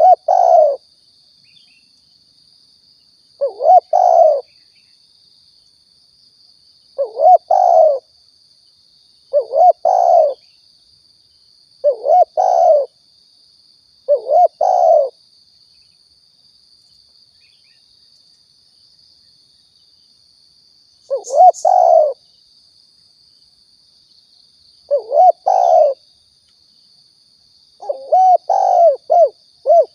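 Spotted dove (tekukur/balam) cooing, played as a lure call: phrases of about a second each, repeated roughly every three seconds, with a pause of about six seconds in the middle and a quicker run of coos near the end. A faint, steady high-pitched hum runs underneath.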